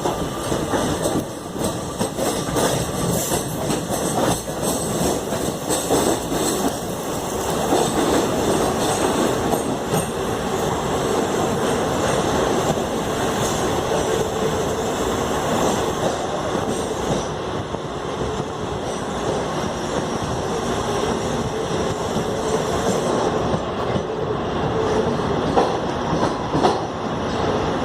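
Koyna Express passenger train running steadily along the track, a continuous rumble of the coaches with wheel clatter over the rail joints.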